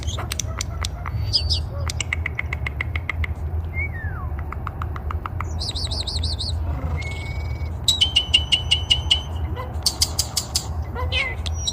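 A songbird singing a varied song of chirps, rapid trills and whistled notes, with a quick run of repeated notes about eight seconds in, over a steady low hum.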